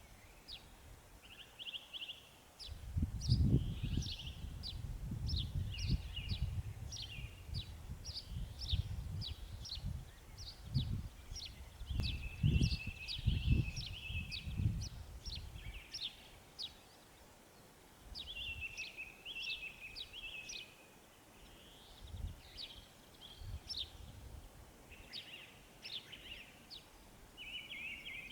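Several small songbirds singing and chirping: quick high notes and short trills, repeated throughout. A low rumbling noise comes and goes underneath, strongest in the first half.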